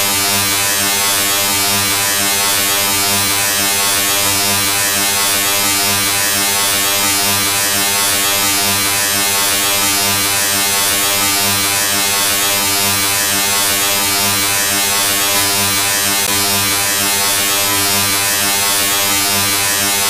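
Steady electric motor buzz with a bright hiss over it, holding the same pitch and level throughout.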